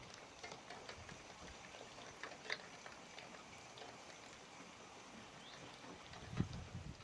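Heavy rain falling: a faint, even hiss with scattered drop ticks, and a dull low thump about six seconds in.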